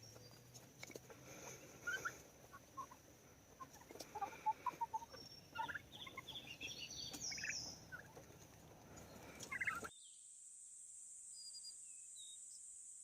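Farm poultry calling: many short, scattered calls and gobbles. About ten seconds in it cuts off suddenly, leaving only a faint steady hiss.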